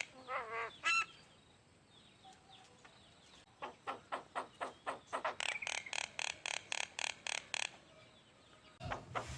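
A songbird calling in a fast run of evenly repeated notes, about five a second, from about three and a half seconds in, after a short falling whistled note at the start.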